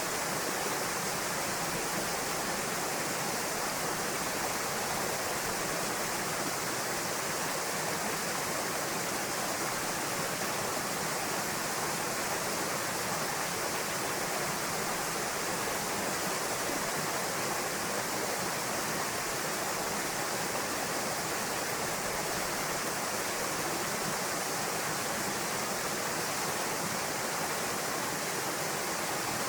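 Waterfall pouring into a pool: a steady, even rush of water with no breaks.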